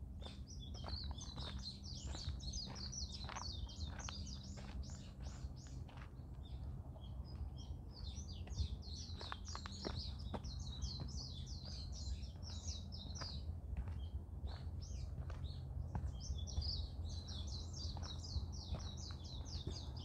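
A songbird singing bouts of rapid, high twittering notes, three bouts each several seconds long. Footsteps on a forest path sound between the bird's notes, most of them in the first few seconds.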